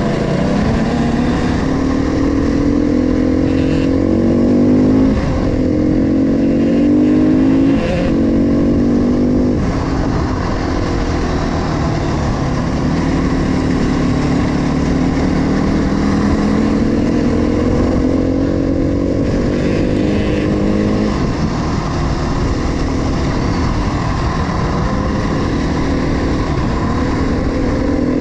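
KTM 350 XCF single-cylinder four-stroke dirt bike engine under way, climbing in pitch and changing up a gear several times in the first ten seconds, then running at a steadier speed with another gear change about two-thirds of the way through.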